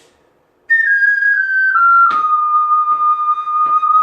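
Ocarina playing a short descending run of about five notes, then holding one long, steady final note, deliberately lengthened to carry the phrase's climax.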